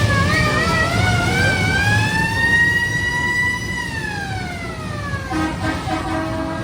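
Fire-engine-style siren on a carnival ride, warbling quickly and then rising into one long wail that falls away. A steady horn blast sounds near the end.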